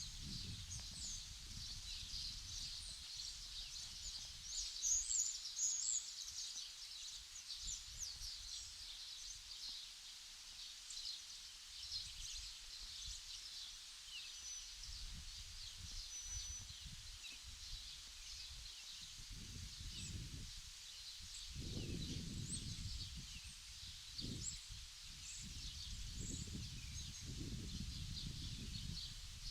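Outdoor ambience of many small birds chirping continuously, busiest about five seconds in, with wind gusting and rumbling on the microphone in the second half.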